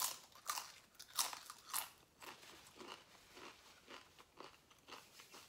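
A person biting and chewing a crunchy tortilla chip: several sharp crunches in the first two seconds, then softer, irregular chewing.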